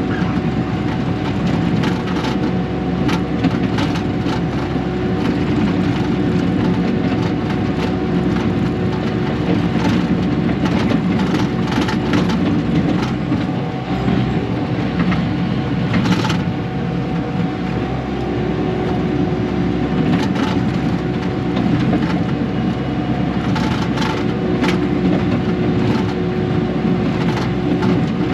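Diesel earthmoving machine running steadily under load, with rocks scraping and cracking under the bucket and tracks as rocky ground is dug and smoothed.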